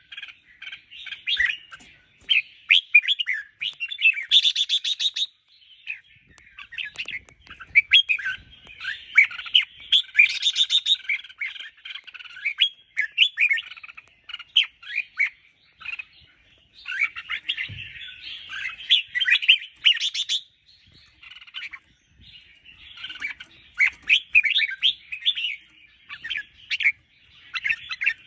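Red-whiskered bulbul singing: quick, chirpy warbled phrases in bursts a few seconds long, separated by short pauses.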